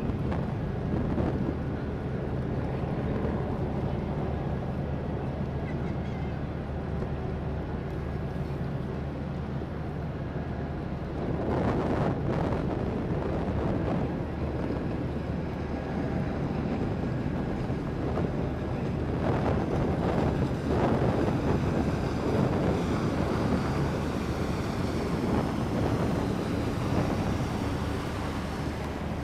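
A boat's engine droning steadily under wind buffeting the microphone and the wash of water, with louder surges of water and wind about twelve and twenty seconds in.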